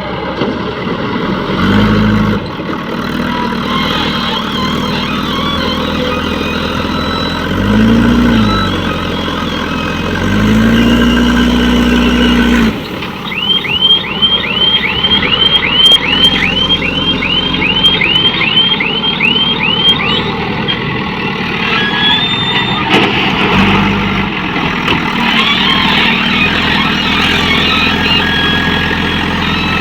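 Heavy diesel engine running and revving up in several surges. A run of quick rising electronic chirps, about two or three a second, sounds for several seconds midway.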